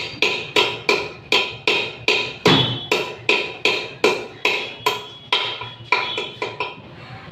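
Hammer tapping steadily on a metal gearbox part, about three blows a second, each blow ringing briefly.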